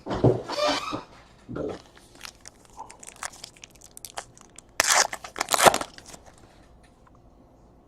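Plastic or foil wrapping on a trading-card box or pack being crinkled and torn open, with scattered small clicks and two loud rips about five seconds in.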